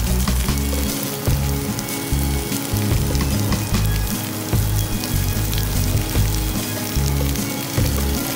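Diced vegetables frying in a hot wok, a steady sizzle with fine crackling, over background music with a bass line.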